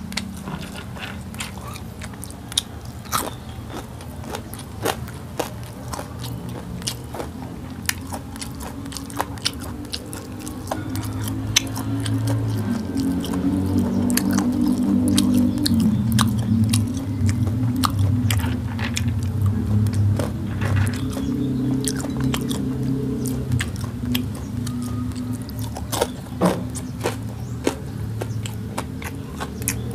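Close-miked chewing and biting of a cooked conch dish and rice, with many irregular sharp mouth clicks and crunches. Low music plays underneath and grows louder for a stretch in the middle.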